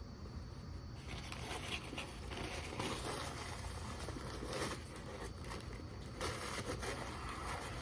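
A person chewing a bite of hickory-smoked ham with barbecue sauce: irregular chewing noises that start about a second in.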